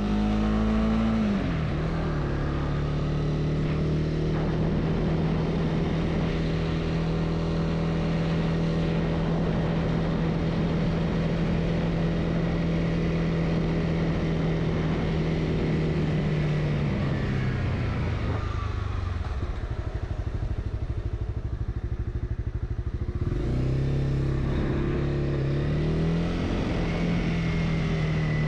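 Honda CB300R single-cylinder motorcycle engine on the move, holding a steady speed. About seventeen seconds in it eases off and the pitch falls as the bike slows. A few seconds later the revs climb again in steps as it pulls away through the gears.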